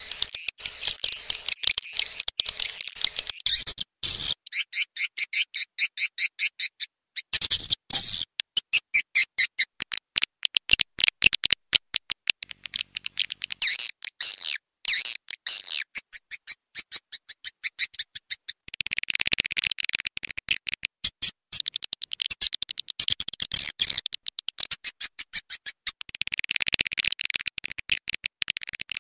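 Edible-nest swiftlet lure call: rapid trains of high clicking chirps and twitters, repeating in bursts separated by short pauses.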